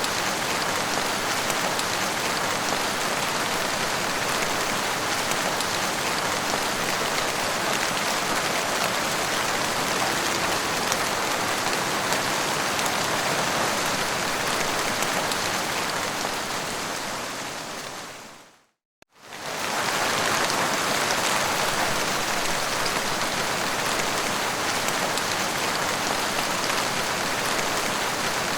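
Heavy rain falling steadily, a dense even hiss. About two-thirds of the way through it fades out to a moment of silence and fades straight back in.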